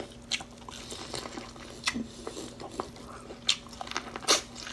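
Biting and chewing kernels off an ear of boiled fresh sweet corn: scattered wet crunches and mouth clicks, the loudest about four seconds in, over a steady low hum.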